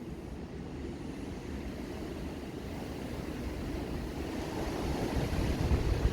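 Strong storm wind blowing and buffeting a phone's microphone, a low rushing noise that builds steadily louder toward the end.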